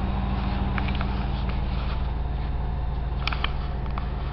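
Oldsmobile 307 V8 with a Rochester Quadrajet four-barrel carburettor idling steadily soon after a cold start, with a few light clicks over it.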